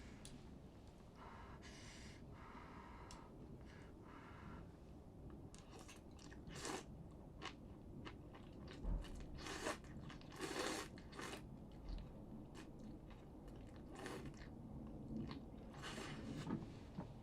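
Close-up chewing and biting of food, with a run of short, crisp crunches that come thicker in the second half.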